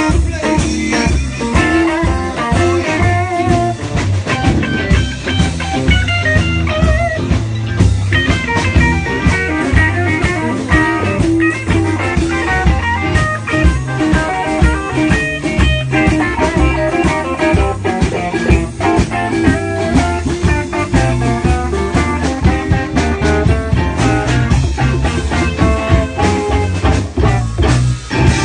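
Live blues band playing an instrumental passage: electric guitar lead over bass and a drum kit keeping a steady beat.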